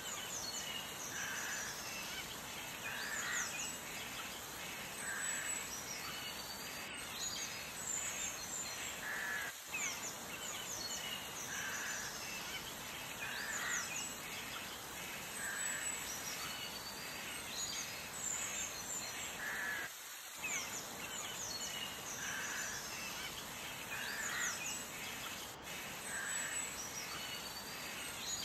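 Bird ambience: a steady hiss with bird calls repeating every second or two and quick high chirps throughout, broken by two brief dropouts about a third and two thirds of the way through.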